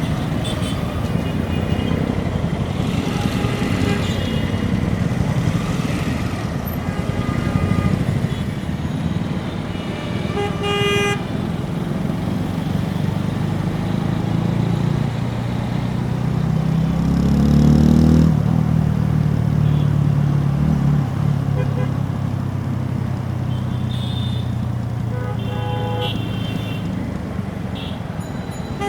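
TVS Apache RTR 4V's single-cylinder engine heard close at the exhaust, running at low speed and revving up about two-thirds of the way through before dropping back. Vehicle horns honk several times around it.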